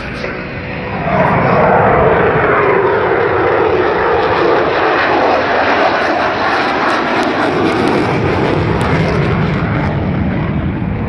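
Lockheed Martin F-22 Raptor fighter jet making a fly-by pass. Its twin turbofan engines swell loud about a second in, and a tone slides down in pitch as the jet goes by.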